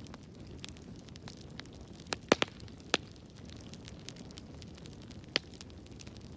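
Wood fire burning in a fireplace: a steady low rumble of flames with scattered crackles, and a few loud sharp pops, a quick cluster about two seconds in, another about a second later and one more near the end.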